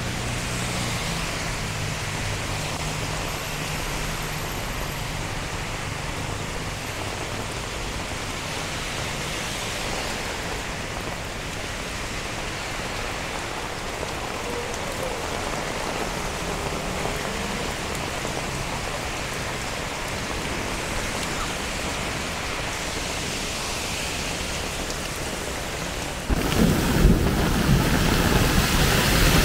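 Heavy rain falling, a steady even hiss, with a faint low hum underneath in the first part. About 26 seconds in, the rain noise suddenly jumps louder and fuller.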